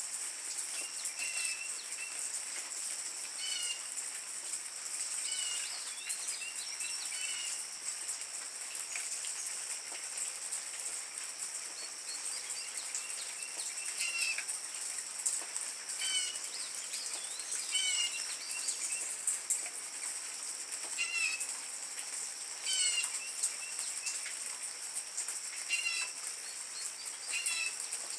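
Hummingbirds giving short high chips and squeaky twitters, scattered irregularly, over a steady high-pitched insect drone.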